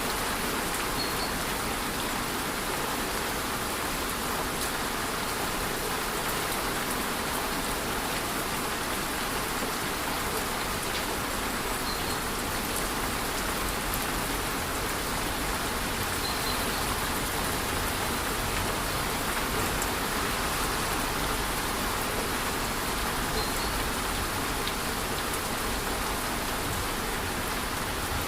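Rainforest waterfall in light rain: a steady, even rush of falling water and rain with no let-up. A faint short high note sounds about four times.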